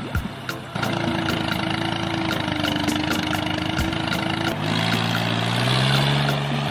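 A vehicle engine running steadily, its tone changing about a second in and again a little past the middle.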